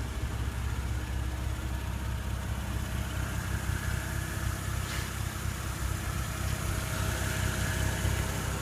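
Porsche Cayenne S's 3.6-litre twin-turbo V6 idling steadily.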